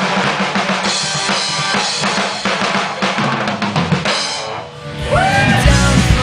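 Rock drum kit playing on its own, bass drum and snare under a wash of cymbals, as a drum break. It fades briefly a little after four seconds, then electric guitar with bent notes and bass come in with the drums near the end.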